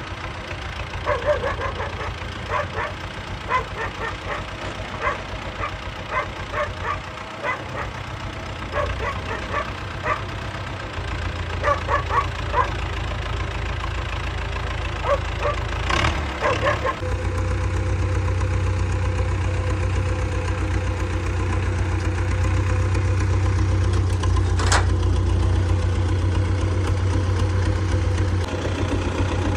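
An engine running steadily, its low drone growing louder a little past halfway. A dog barks repeatedly through the first half, and there are a couple of sharp knocks.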